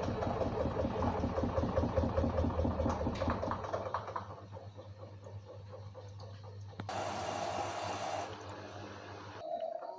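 LG WD-1054FB front-loading washing machine running, its drum turning with a rhythmic hum that fades about four seconds in. A hiss starts suddenly a little before the last third and stops about a second later, and the motor hum cuts off near the end.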